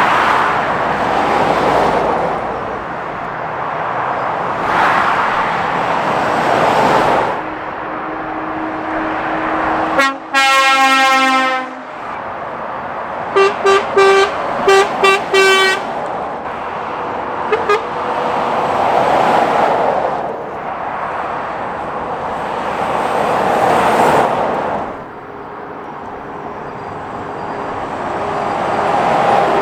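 Lorries and other traffic passing at speed on a dual carriageway, each pass a swell of tyre and engine noise. About ten seconds in a vehicle horn sounds a long blast, then a run of five short toots and a quick double toot.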